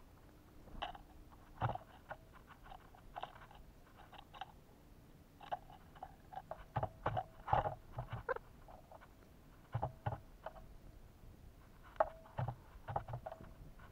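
Irregular taps and knocks, some in quick clusters, of birds pecking at sunflower seeds and suet and moving about on a bird feeder close to the microphone.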